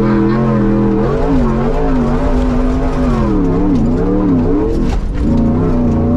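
Off-road prerunner truck engine revving hard, its pitch climbing and dropping again and again as the throttle is worked.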